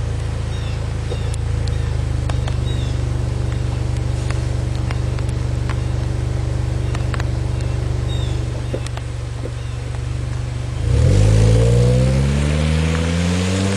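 Acura TSX's 2.4-litre four-cylinder running through an aftermarket Fujitsubo exhaust and high-flow catalytic converter, holding a steady low-rev note. About eleven seconds in it accelerates, the exhaust note rising in pitch and getting louder.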